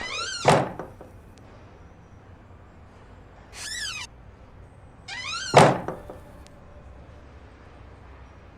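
Cartoon sound effects: three short falling squeaks, the first and the last each ending in a sharp thunk.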